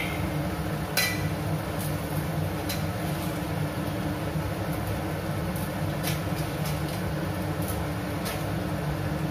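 Masala frying on low flame in a steel kadhai: a few scattered sharp pops over a steady low hum.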